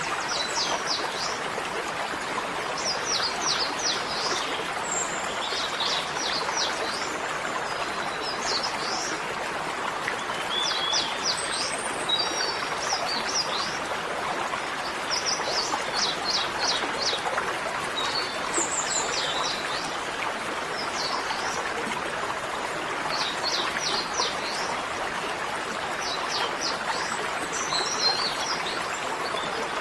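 Small birds chirping in short runs of quick high notes every few seconds, over a steady rush of flowing water.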